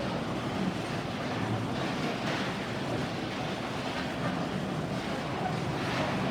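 Bowling alley din: a steady rumble of bowling balls rolling down the wooden lanes, with no single loud pin crash standing out.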